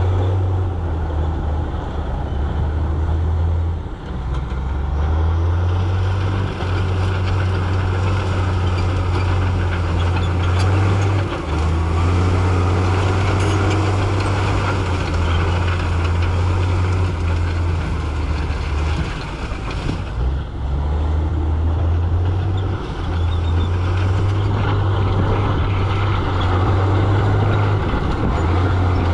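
Heavy diesel engine of earthmoving machinery running hard, its low drone stepping up and down in pitch every few seconds, over a steady rattling, grinding noise.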